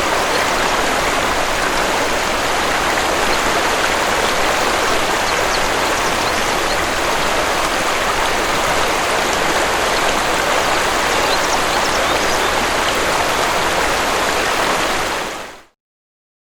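Waterfall's rushing water, a steady dense rush that fades out quickly about fifteen seconds in.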